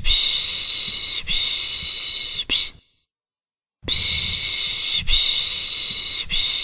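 A person shushing a baby with the Turkish soothing sound "piş piş": long hissing shushes in groups of two long and one short, a second's pause, then the group again.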